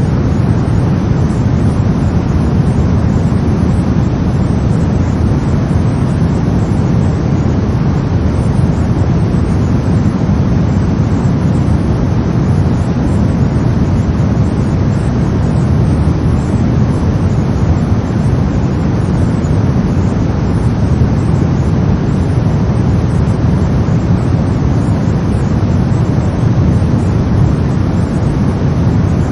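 Steady brown noise: a deep, even rumbling hiss, strongest in the low end and fading toward the highs, with no change or events.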